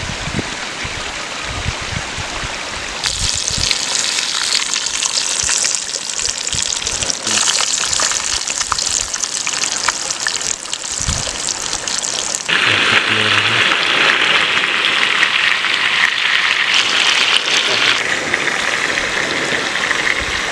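Steady rushing water, loud and continuous. Its character changes abruptly about 3 seconds and 12 seconds in, brighter and hissier, then fuller.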